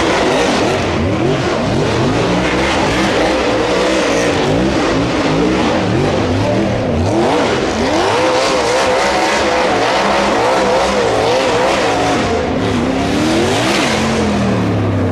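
Racing car engine revving hard, its pitch rising and falling again and again.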